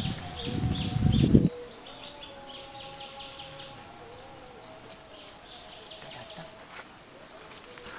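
Loud low rumbling noise for about a second and a half that cuts off abruptly, then open-air ambience with repeated runs of quick high chirps from birds over a faint steady hum of tones.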